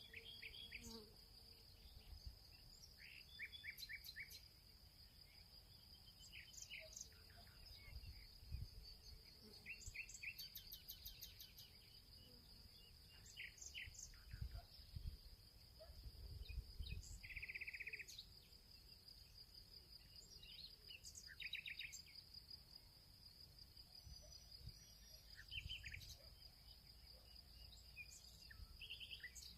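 Field ambience: insects keep up a steady, high-pitched trill, while birds give scattered short chirps and calls over it. Faint low rumbles come and go underneath.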